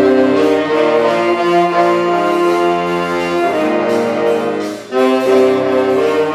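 Wind and brass ensemble playing loud sustained chords, which break off briefly about five seconds in before the band comes back in.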